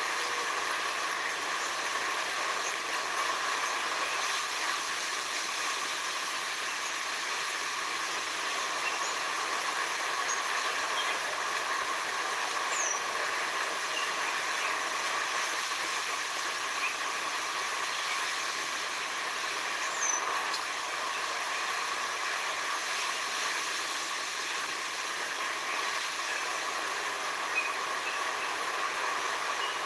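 Steady forest ambience: an even, dense chorus hiss with a couple of brief, high bird whistles.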